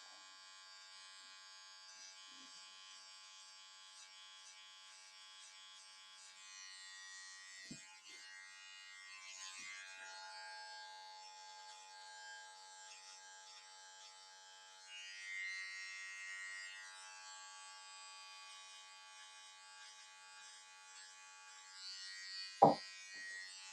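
Electric hair clippers buzzing faintly and steadily while shaving a design into hair, with a short knock about eight seconds in and a sharper one near the end.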